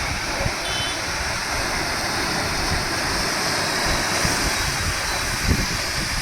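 Heavy rain pouring with the steady rush of water.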